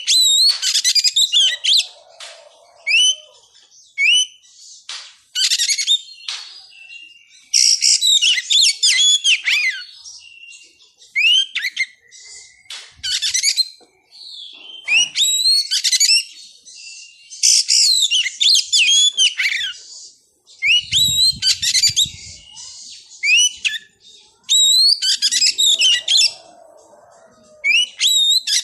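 Oriental magpie-robin singing: bursts of varied, high whistled phrases and quick chirps, each a second or two long, with short pauses between.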